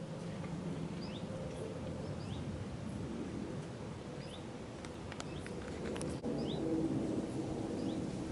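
Outdoor field ambience: a bird repeats a short rising call about every second or two over a steady low rumble, with a few faint clicks about five to six seconds in.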